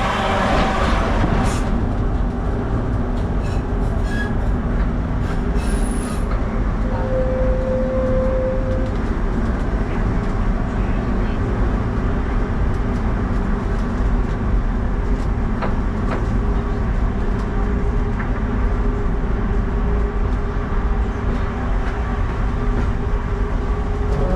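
Trieste–Opicina tram running on its rails with a steady low rumble, a short wheel squeal about seven seconds in, and a few light clicks.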